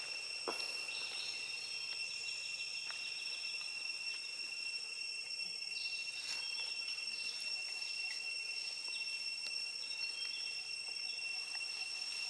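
Insects trilling steadily in a high, even drone, with a few faint clicks.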